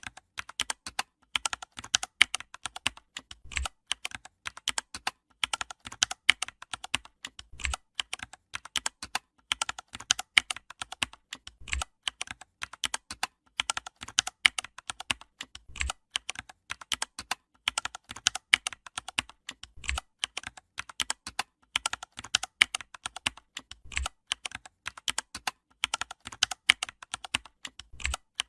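Computer keyboard typing: a continuous run of rapid key clicks, with a low thump about every four seconds.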